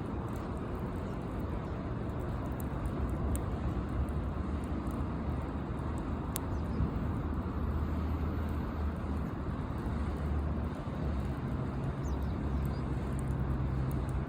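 Campfire burning with occasional sharp crackles and pops, over a steady low rumble.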